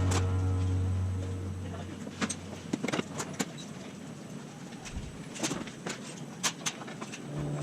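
Background music fading out over the first two seconds, leaving scattered clicks and knocks of tools and parts in a workshop. Music comes back in at the very end.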